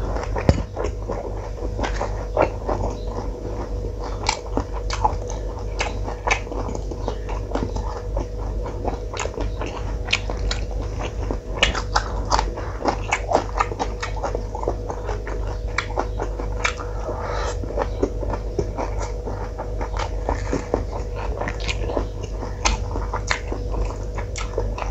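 Close-miked mouth sounds of a person eating yellow rice and curry by hand: chewing, lip smacks and wet clicks, several a second, over a steady low hum.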